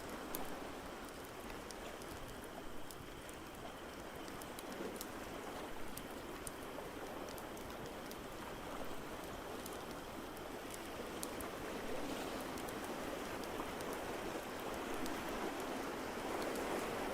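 Ambience mix of a steady rush of water that swells toward the end, with sharp crackles of a fireplace scattered through it.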